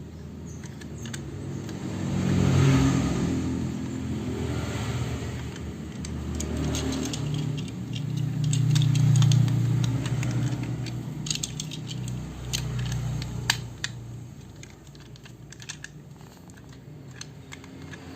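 Scattered small clicks and rattles of plastic toy parts being handled, over a low hum that swells and fades.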